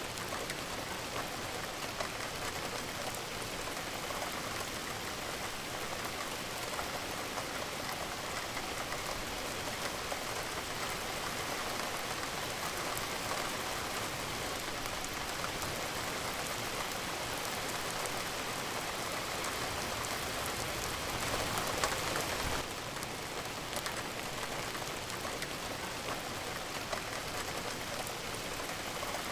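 Steady rain falling, with many fine drops pattering on a surface; it swells a little about twenty seconds in, then settles again.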